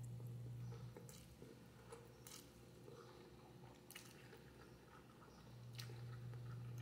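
Faint chewing of spicy instant noodles, with a few small clicks about a second apart, over a steady low hum.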